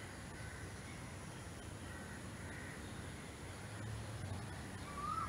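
Faint outdoor background with a few distant bird calls, including one short rising call near the end.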